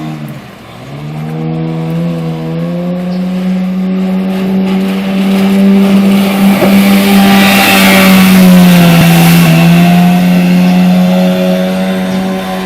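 Motorboat engine running hard: its revs drop briefly about half a second in, then climb and hold high, with a rushing hiss loudest in the middle.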